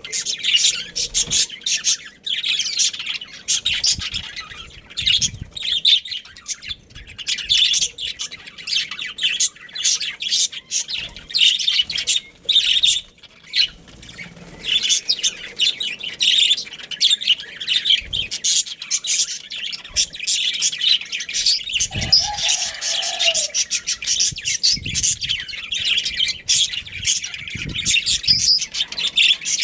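Budgerigars chirping and chattering continuously, many quick high calls overlapping, with one lower-pitched call a little past two-thirds of the way through.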